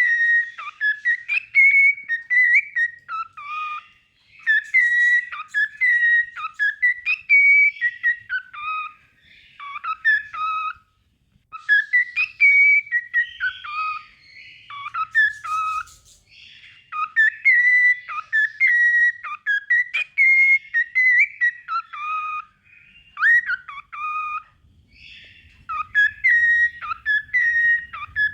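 Cockatiel whistling its song: phrases of clear whistled notes that slide and jump in pitch, broken by short pauses.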